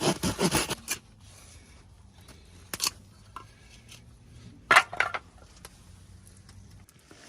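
Hand saw cutting wood with quick, even back-and-forth strokes that stop about a second in. A few light clacks and knocks follow, near the middle and again a little later.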